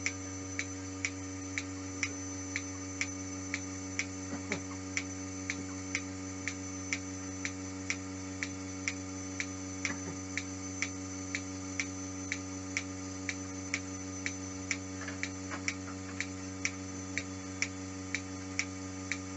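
Machine milking running: the steady hum of the vacuum line with the milking machine's pulsator clicking evenly, about one and a half times a second.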